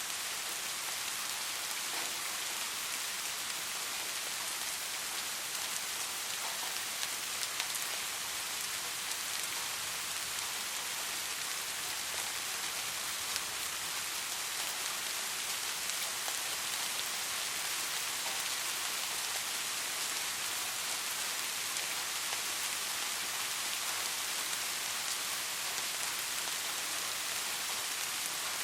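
Steady, gentle rain falling, an even hiss with scattered faint drop ticks and no thunder.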